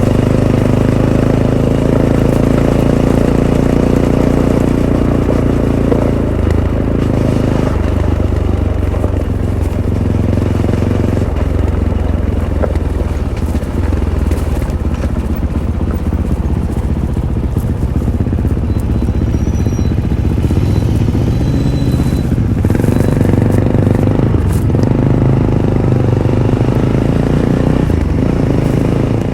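Fantic Caballero 500's single-cylinder four-stroke engine running through its stock Arrow exhaust while riding. The engine note rises and falls several times with throttle and gear changes, over a steady rush of wind and tyre noise.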